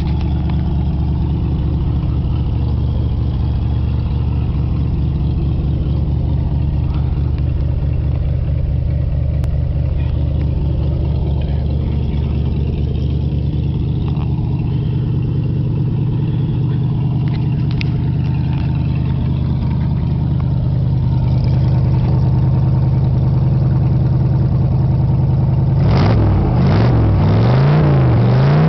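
Buick engine with a straight-piped exhaust idling steadily, then revved up and down several times in quick blips near the end.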